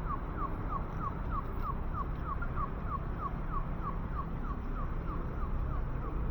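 Audible pedestrian crossing signal chirping rapidly, about three short falling chirps a second, over a steady low rumble of city traffic.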